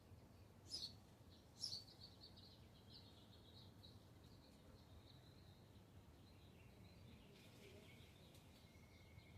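Faint songbird song: two sharp down-slurred chirps about a second apart, then a long high trill that slowly drops in pitch and fades, and a thin steady whistle near the end.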